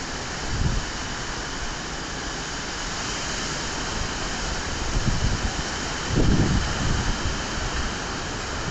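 Strong wind rushing steadily, with gusts buffeting the microphone in low rumbles a few times: about half a second in, around five and six seconds in, and again at the end.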